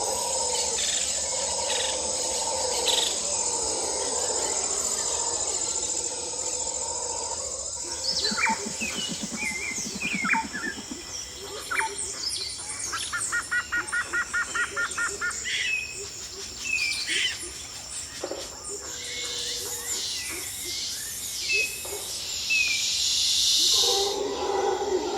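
Wild birds calling and chirping, with short scattered chirps and a quick run of about a dozen rapid repeated notes midway.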